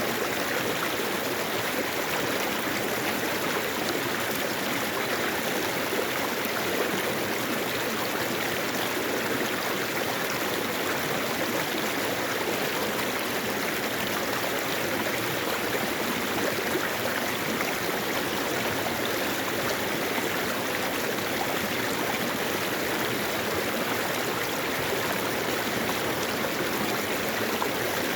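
Mountain-valley stream running steadily over rocks, a continuous even rush of flowing water.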